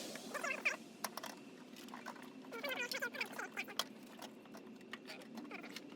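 An animal calling in two wavering stretches, near the start and around the middle, with sharp clicks and knocks scattered between them.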